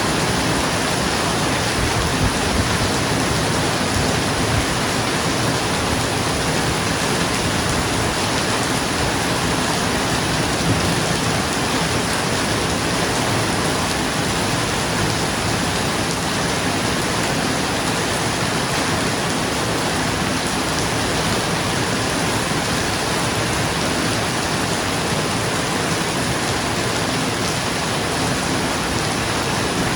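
Steady, dense rain falling on a roof, an even hiss with no thunder.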